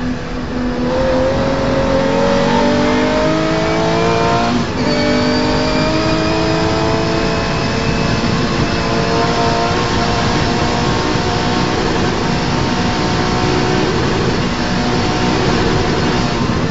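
Rally car engine heard from inside the cabin, accelerating hard: the pitch climbs, drops briefly at a quick upshift about four and a half seconds in, then climbs more slowly and holds at high revs.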